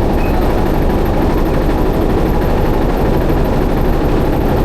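A river boat's engine running steadily, a loud low rumble that does not change.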